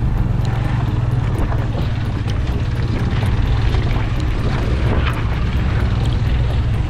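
Motorcycle engine running steadily in first gear on a rough off-road gravel track, with scattered clicks and rattles over the engine drone.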